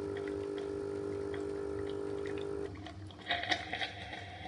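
Tommee Tippee Perfect Prep formula machine running its hot-water shot cycle: a steady electric hum that cuts out a little over halfway through, followed by a patter of small clicks and ticks.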